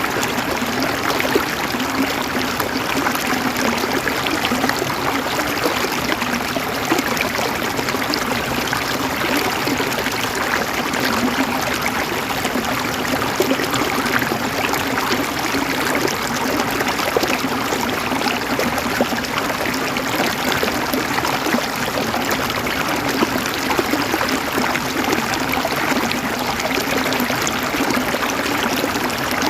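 River water flowing and babbling over rocks in a steady, unbroken rush with fine gurgling detail.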